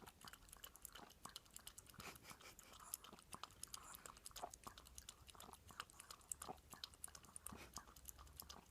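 Dog lapping milk, a quick run of faint wet clicks several times a second.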